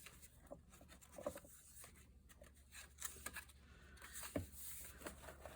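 Faint handling of paper and card: light rubbing and a few small taps as the folders are moved about.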